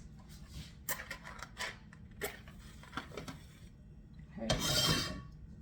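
Light clicks and scrapes of kitchen things being handled, then a single short rasping hiss near the end, like a match being struck to light the stove.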